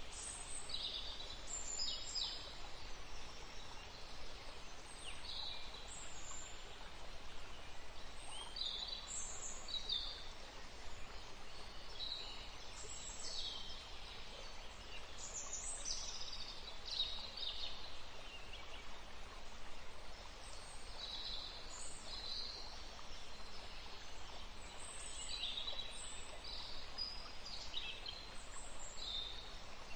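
Several songbirds chirping and calling in short high notes, scattered throughout, over a steady faint background hiss.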